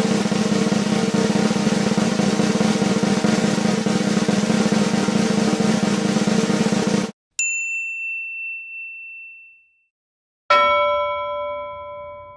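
A snare drum roll that runs for about seven seconds and stops abruptly, then a single high bell ding that rings away, then a lower bell-like chime struck once that rings for a couple of seconds.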